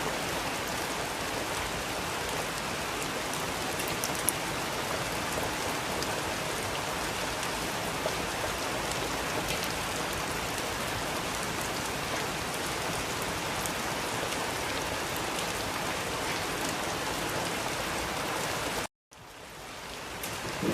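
Steady rain falling, an even hiss dotted with small drop ticks. About nineteen seconds in it cuts out completely for a moment, then fades back up.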